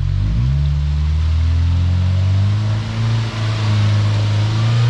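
Off-road vehicle engine revving up about a third of a second in, then held at high revs under load as it crawls up a rock obstacle.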